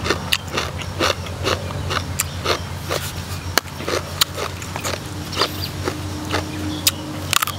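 A person chewing food close to the microphone: irregular wet crunches and mouth smacks, a few each second, over a steady low hum.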